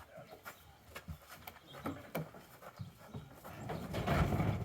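A heavy wooden piece being lifted and pushed: scattered knocks and clatter, then a louder scraping rumble near the end as it is shoved along.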